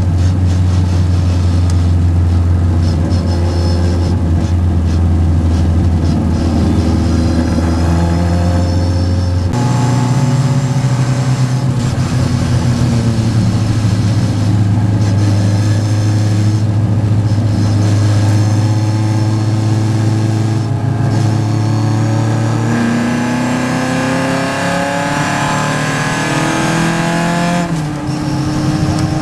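Vintage Triumph race car's engine heard from inside the car at racing speed. It holds a steady note, jumps abruptly in pitch about a third of the way in, then revs climb steadily over several seconds before a gear change drops them near the end.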